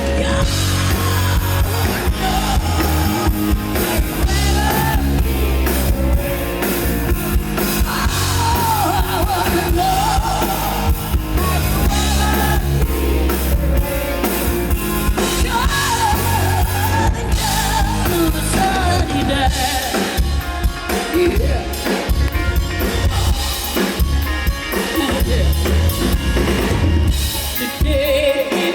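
Live rock band playing a mid-tempo song, with a steady drum-kit beat under a sung vocal melody.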